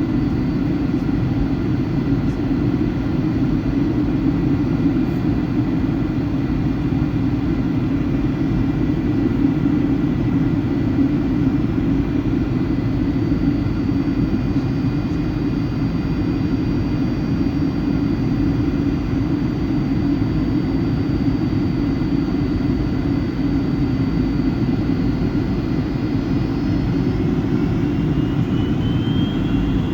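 Boeing 757-200 jet engines heard from inside the cabin on approach: a steady roar with thin high whines over it. Near the end one whine rises in pitch as the engine thrust changes.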